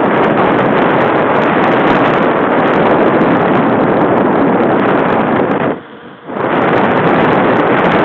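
Loud steady wind rush buffeting the microphone, with a short drop-out about six seconds in.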